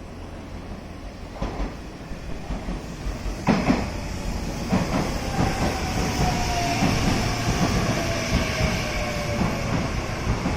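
Electric commuter train coming into the platform, its wheels clacking over rail joints and growing louder, with a whine that falls in pitch as it slows.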